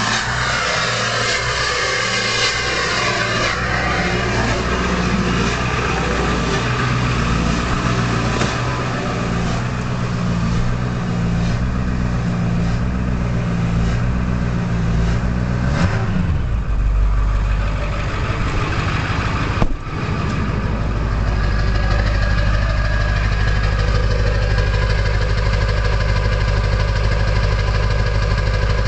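Ford F-250's 7.3-litre Power Stroke diesel, straight-piped, at cold high idle with the exhaust back pressure valve closed, making a loud whistling over the engine. About halfway through, the engine speed drops to a lower, steady idle.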